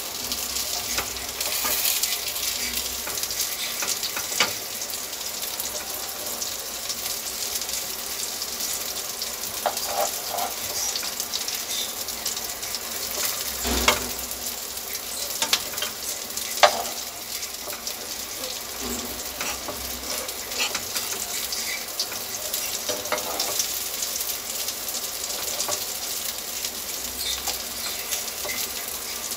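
Kala chana kebab patties shallow-frying in ghee in a nonstick pan: a steady sizzle, with scrapes and a few sharp knocks of the spatula against the pan as the patties are turned, the loudest two a little past midway.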